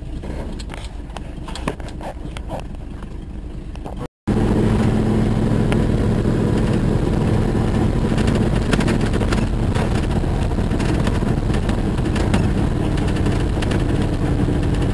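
Jeep engine running as it drives over a rough forest road, with scattered rattles and knocks. About four seconds in, the sound cuts out briefly and comes back as a louder, steadier engine drone.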